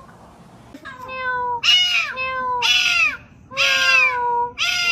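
A cat meowing over and over, about six loud meows in quick succession, each rising and then dropping in pitch.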